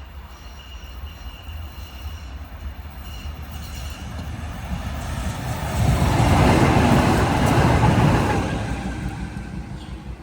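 Tatra tram passing by: its rumble builds over several seconds, is loudest about six to eight seconds in, then fades as it moves away.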